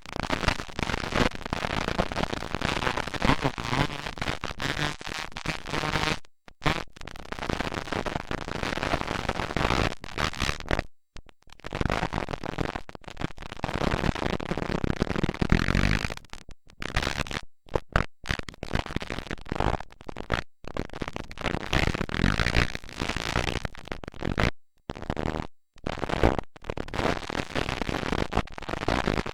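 Motocross dirt bike engines racing, heard loud and rough through a camcorder microphone. The sound cuts out abruptly several times.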